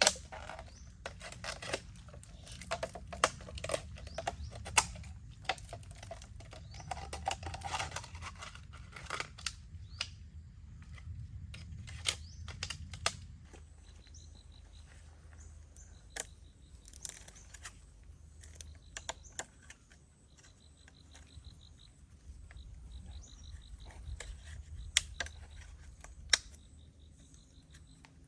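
Irregular close-up clicks, taps and knocks of things being handled, busy for the first half and sparser after, with a low rumble under the busy part. A faint high rhythmic trill comes and goes in the background later on.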